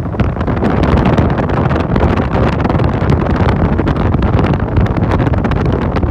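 Wind rushing over the microphone of a rider on a moving motorcycle taxi, loud and steady, with the motorcycle running underneath it.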